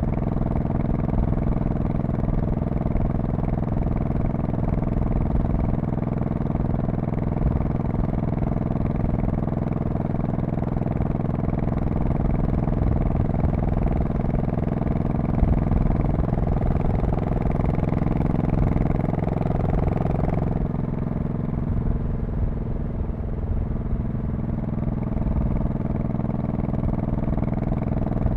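2002 Honda Shadow Spirit VT1100C's 1100 cc V-twin running steadily while riding. Its note drops and softens about twenty seconds in.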